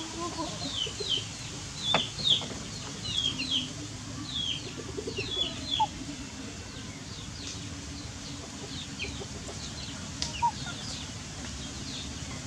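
Birds chirping: many short, high, falling chirps in quick succession, thick in the first half and sparser later. A single sharp click about two seconds in.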